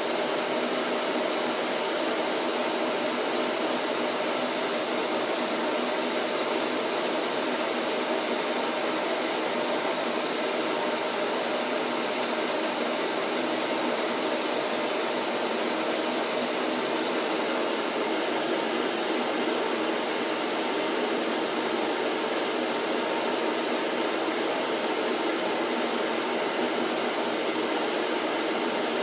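Vacuum cleaner running steadily: an even, unbroken whooshing motor-and-airflow noise.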